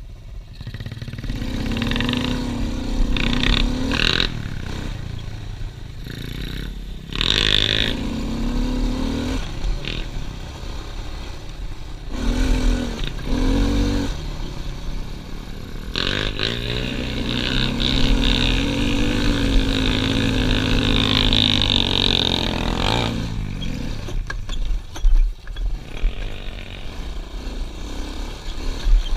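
Pit bike engine being ridden, the revs climbing and dropping as the throttle is opened and closed: several short bursts in the first half, then a longer pull that rises, holds and falls away.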